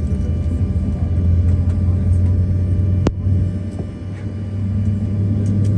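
Steady low drone of a Boeing 737-800's cabin, with a single sharp click about three seconds in.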